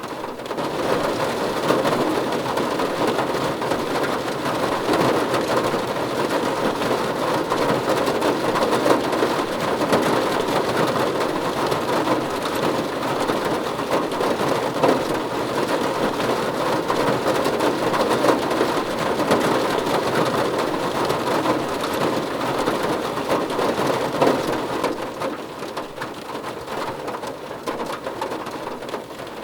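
Steady heavy rain drumming on a car roof, a dense patter of drops. It picks up about a second in and eases somewhat near the end.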